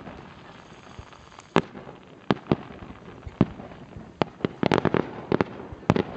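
Fireworks going off: irregular sharp bangs a second or so apart, then a quick crackling cluster of reports about three-quarters of the way through.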